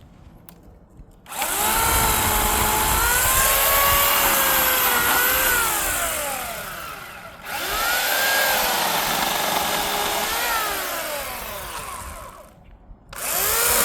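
Electric chainsaw running in three bursts, cutting into a tree trunk log: its motor whine sags in pitch as the chain bogs down in the wood, then winds down. It starts again just past halfway, bogs and slows, and starts once more near the end.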